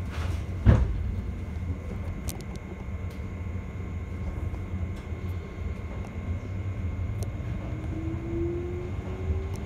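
Cabin sound of a JR 211-series electric train running slowly: a steady low rumble with a sharp thump about a second in and a few light ticks. In the second half a faint whine rises slowly in pitch.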